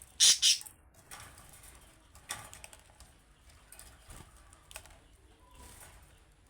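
Budgerigars calling and chattering: two short, loud, harsh chirps near the start, then scattered soft clicks and brief chirps.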